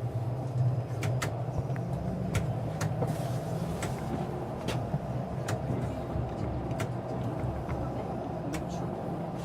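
Inside a Bombardier Flexity Outlook low-floor streetcar riding along: a steady low rumble and hum, with irregular sharp clicks and rattles every half second or so.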